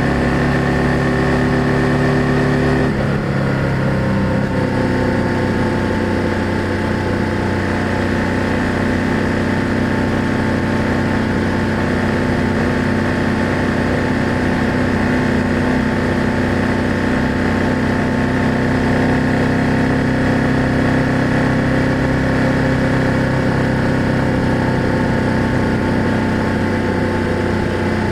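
BMW F800GS parallel-twin engine and exhaust running on the road; the engine pitch drops about three seconds in, then holds steady.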